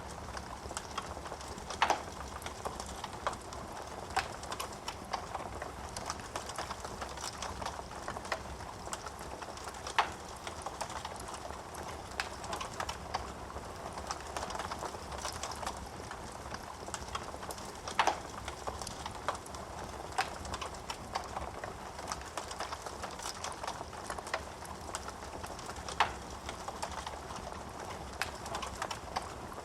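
Wood fire crackling in a fireplace: a dense run of small snaps and ticks from the burning logs, with a few louder pops spaced about eight seconds apart.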